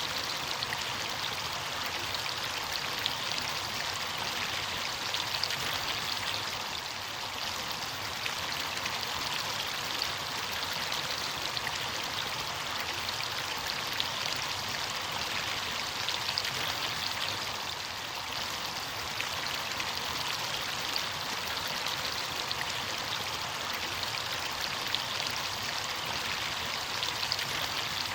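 Running water of a stream or small cascade: a steady rushing and splashing with fine crackle, even throughout.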